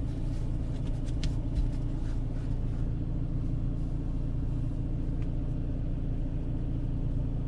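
Renault Clio III's LPG-converted 1.2-litre four-cylinder petrol engine idling steadily, a low even rumble. The scanner has logged a cylinder 4 misfire, and the owner says it is still misfiring.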